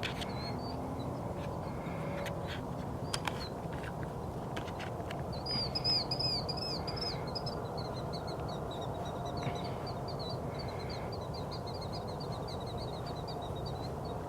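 Wild birds calling over a steady low background rumble: a loud burst of quick, high, arched chirps about halfway through, running on into a long fast string of high chattering notes that stops just before the end. A few sharp clicks come in the first few seconds.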